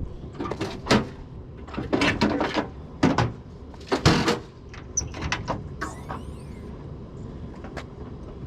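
A series of clicks, knocks and clatters from hard objects being handled, busiest in the first half, then a few scattered clicks.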